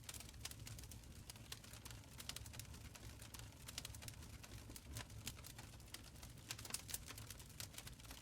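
Wood fire crackling in a stone fireplace: quick irregular snaps and pops over a low steady rumble of the flames.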